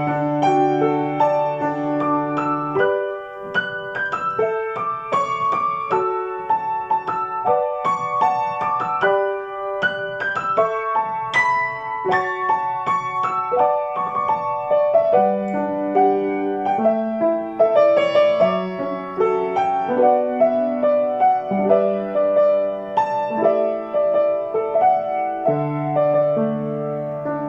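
Background piano music: a gentle solo piano piece, a melody over held bass notes.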